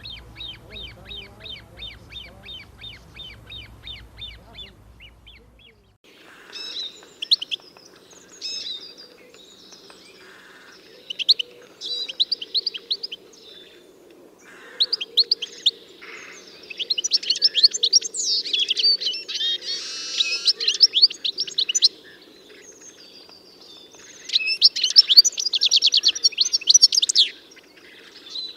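Small birds singing: first a regular series of repeated high chirps, about four a second, then, after an abrupt change near six seconds, varied trilled songs with several long runs of rapid notes.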